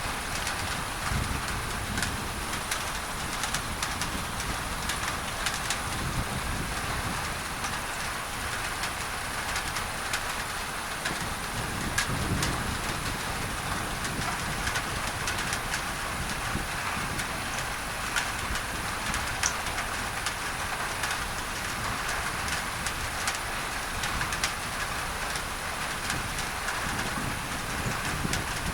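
Steady rain on a tin roof, with many sharp drop ticks over an even hiss of added masking noise, and low rumbles of distant thunder swelling now and then.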